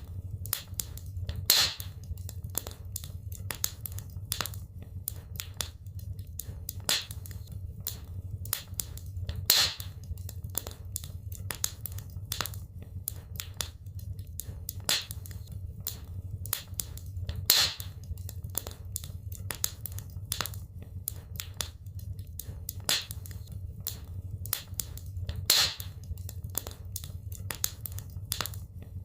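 Wood fire in a fireplace crackling, with a dense run of small snaps and a louder pop about every eight seconds over a low, steady rumble.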